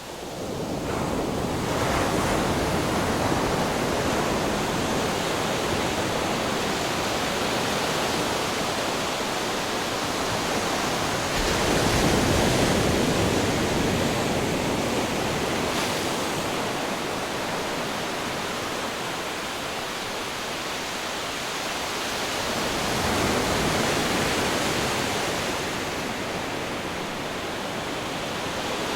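Ocean waves breaking on rocks: a continuous rushing wash of surf that swells about a second in, again around twelve seconds and again around twenty-four seconds.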